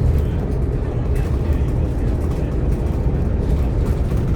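Scania K230UB OmniLink bus's diesel engine heard from inside the passenger cabin: a steady low rumble that holds an even level.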